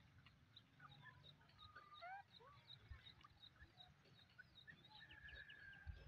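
Faint, scattered chirps and short rising and falling whistles of small birds, with one longer held whistle near the end, over a low rumble.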